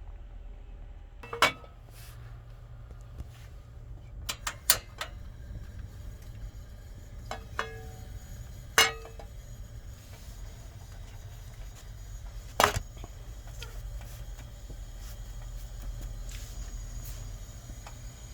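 Metal utensil clanking against a karahi pan a handful of times, some strikes ringing briefly, over a steady low hum.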